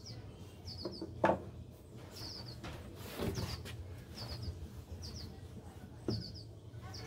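Small bird chirping in short, quick triplets about once a second over a low steady hum, with a sharp knock about a second in.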